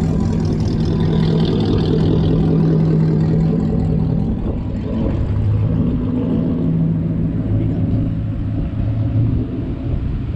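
Pickup truck engine and exhaust running with a steady low drone, the pitch dropping about four seconds in and shifting again as it goes.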